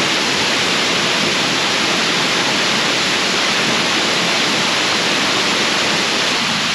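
Small waterfall (Silver Run Falls) pouring steadily: an even, unbroken rush of falling water.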